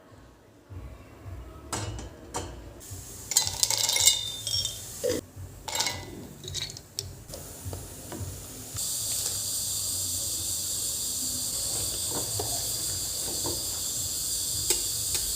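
Kitchen utensils and dishes clattering, then a steady sizzling hiss that starts suddenly about nine seconds in, as food goes into hot oil.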